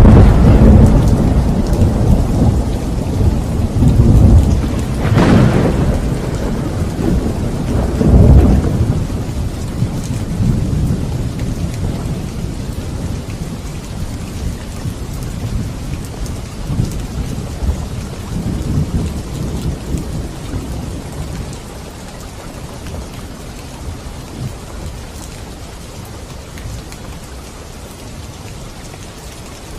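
Thunderstorm: a loud, low rolling thunder with sharp cracks about five and eight seconds in, dying away over the rest of the stretch, leaving steady rain falling.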